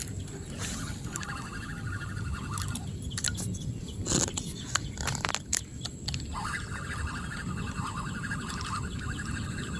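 Outdoor rural ambience: a low rumble of wind on the microphone under a steady chirring of birds or insects, broken about three to six seconds in by a cluster of sharp clicks.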